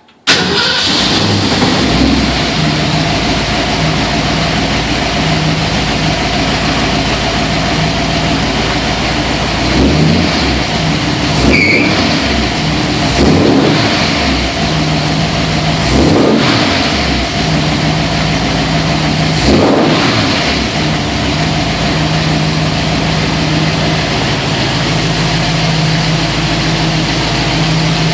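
Ford 289 V8 with a solid-lifter Comp Cams 270S camshaft and Porter mufflers, running at idle. Between about ten and twenty seconds in, the throttle is blipped briefly about every three seconds, each rev rising and falling back to idle.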